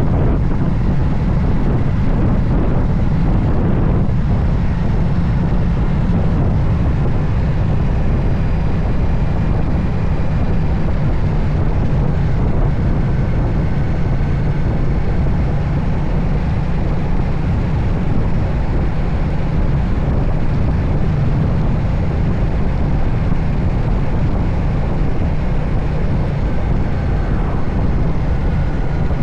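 Steady wind rush over the microphone of a motorcycle riding at speed, with a low, even drone of engine and road noise underneath and no let-up.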